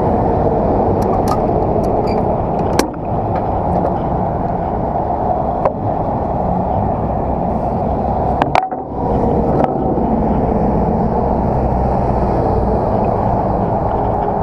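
Semi-truck diesel engine running steadily at idle, with a few sharp knocks and clanks over it, the loudest a little past halfway.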